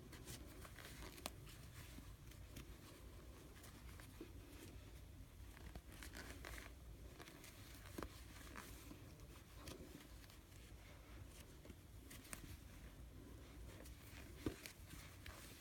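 Faint rustling of yarn with a few light clicks of a crochet hook while single crochet stitches are worked.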